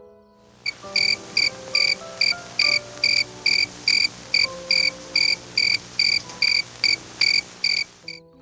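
An insect chirping: a steady run of short, high-pitched chirps, about three a second, starting under a second in and stopping just before the end. Soft background music plays underneath.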